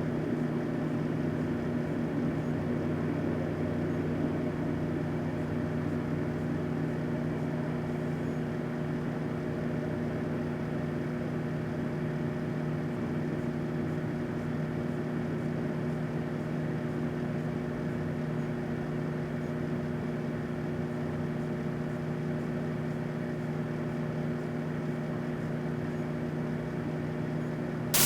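Microwave oven running with a steady electrical hum, a 9-volt battery inside heating up without any pops or sparks.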